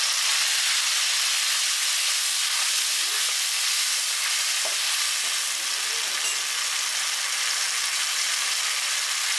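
Blended tomato juice sizzling in hot oil in a kadai, a steady hiss that comes in sharply as it hits the oil; a slotted spoon stirs through it.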